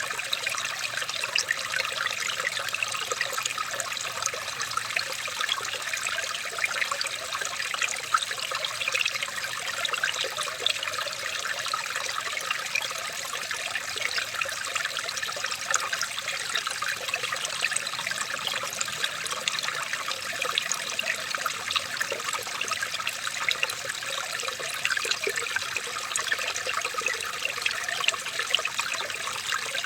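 Running water trickling and splashing steadily, with many small splashes over an even rush.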